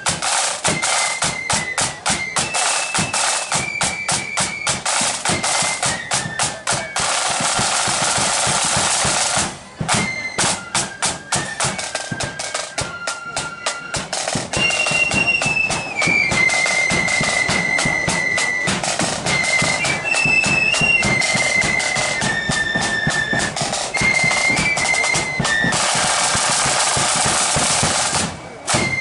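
Marching flute band playing a tune: shrill held flute notes over rapid, dense snare drumming and bass drum. The music dips briefly about a third of the way in and again near the end.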